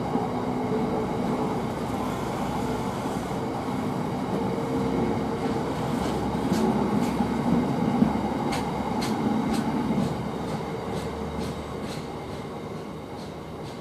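Freight train rolling slowly past, its wagon wheels clicking over rail joints in a run of sharp clicks. The rumble eases off in the last few seconds as the train draws away.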